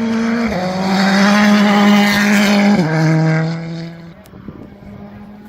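Rally car accelerating past on a special stage. The engine shifts up twice, about half a second in and just before three seconds in, with its note climbing between shifts. It is loudest midway, then fades away by about four seconds.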